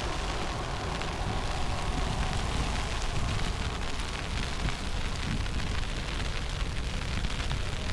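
Steady storm noise outdoors in falling snow: a fluctuating rumble of wind buffeting the microphone, with fine ticking throughout.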